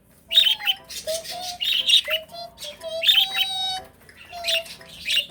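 Pet bird singing: a quick series of short chirps and whistles, with one longer whistled note about three seconds in.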